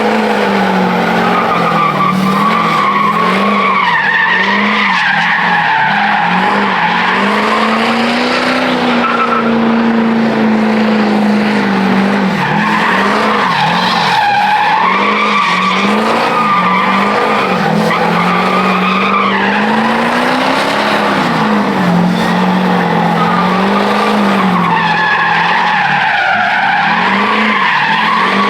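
Truck engine held at high revs through a long burnout, its pitch wavering up and down as the throttle is worked, over the steady rush of spinning, squealing tires.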